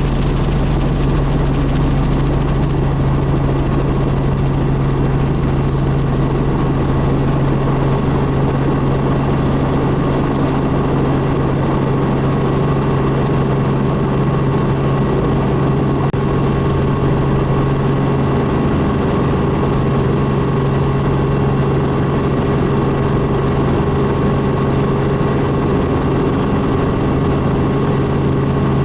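Robinson R44 helicopter in cruise, its rotors and six-cylinder piston engine making a steady, unchanging drone with a strong low hum.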